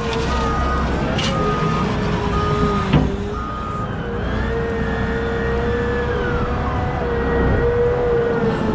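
Cat 972M XE wheel loader running, its diesel rumble carrying a steady whine that rises and falls. A reversing alarm beeps about once a second until about four seconds in, and there is one sharp knock about three seconds in.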